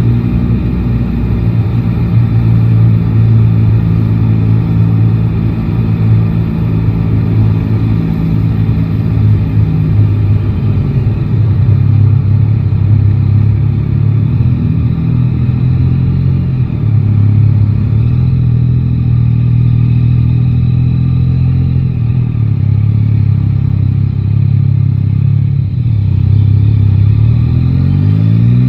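Yamaha Tracer 9 GT's 890 cc inline three-cylinder engine running at fairly steady revs, its pitch stepping up or down a few times. In the last couple of seconds the pitch rises as the engine revs up under acceleration.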